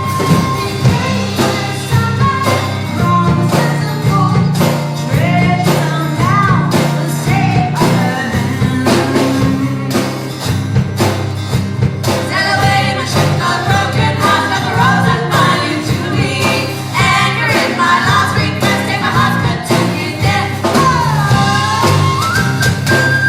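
Live band music: a steady drum beat and bass under a lead melody that bends in pitch, growing busier about halfway through.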